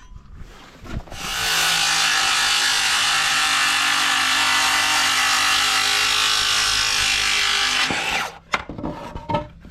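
Electric power saw running and cutting through a wooden framing board for about seven seconds, then winding down, followed by a few knocks as the wood is handled.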